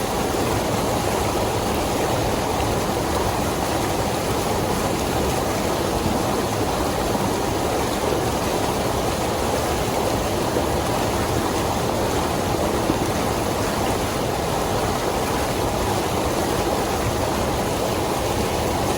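Creek running high with spring water, a steady rush of water, swollen after about four inches of rain.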